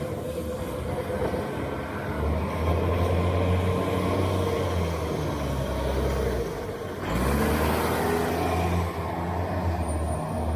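A large vehicle's engine running with a low, steady hum over a constant hiss of street noise. About seven seconds in, a louder rushing hiss of a vehicle passing on the wet road swells for a couple of seconds, then fades.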